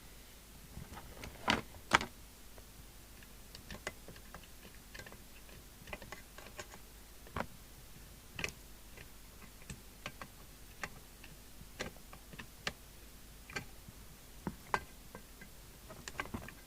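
Irregular light clicks and taps of a small hand tool working at a jammed, broken ferrite tuning core in a CB radio's coil, with two louder clicks about a second and a half in.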